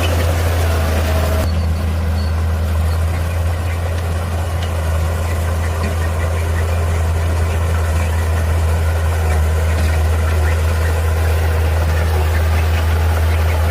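Heavy earthmoving machine's engine running steadily with a strong low hum. About a second and a half in, the higher-pitched hiss over it drops away suddenly.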